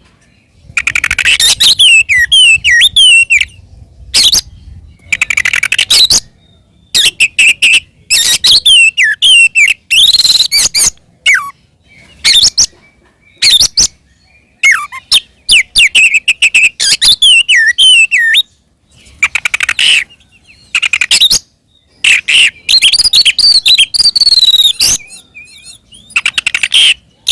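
Oriental magpie-robin singing loud, aggressive fighting-mode song. It comes in rapid phrases of whistles and stuttering chattering notes, a second or two each, broken by short pauses.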